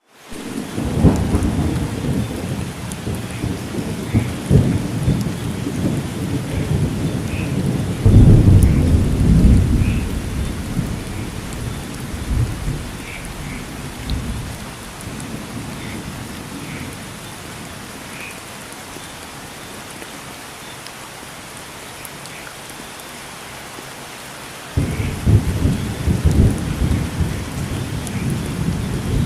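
Steady heavy rain with rolling thunder. Deep rumbles run through the first half and are loudest around eight to ten seconds in. Then the rain goes on alone for about ten seconds before the thunder breaks in again abruptly near the end.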